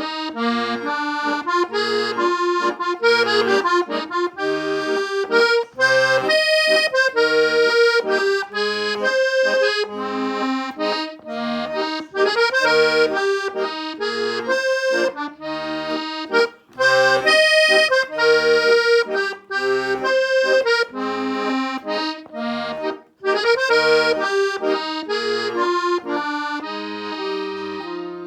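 Solo accordion playing a waltz: a melody over short, regularly repeated low bass-and-chord notes, with brief pauses between phrases.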